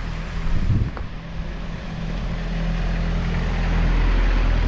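An engine idling with a steady low hum, with wind buffeting the microphone, a brief gust under a second in and stronger gusts towards the end.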